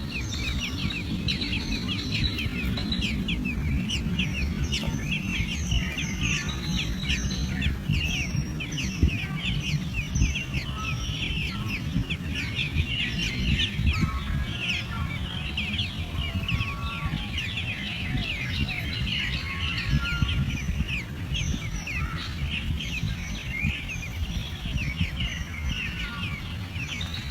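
Birds chirping continuously in rapid, overlapping short high notes, over a steady low rumble.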